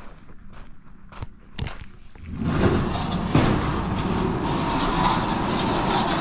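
A few soft clicks, then about two seconds in the loud, steady running of a JCB teleskid skid steer working a bush hog mower begins.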